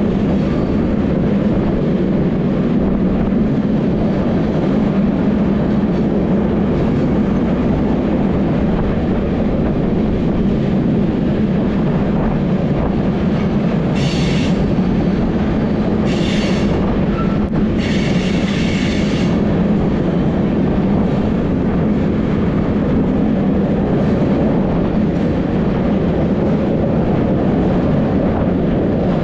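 Moving train heard from the locomotive cab: a steady low drone with rail noise. About halfway through come three short high-pitched squeals, the last about a second long.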